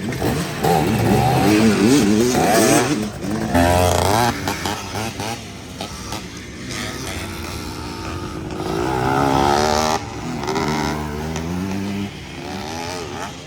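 Several motorcycle engines revving, their pitch rising and falling as the bikes ride past, loudest for the first few seconds and again about nine seconds in.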